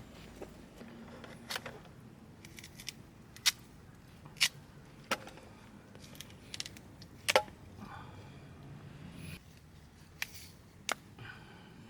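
Irregular sharp clicks and clinks of small hard objects being handled, about a dozen spread unevenly, a few with a short ringing tone.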